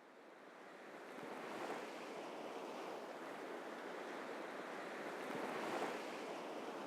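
Sea surf washing in, a steady rushing noise that fades in from silence over the first second and swells a little twice.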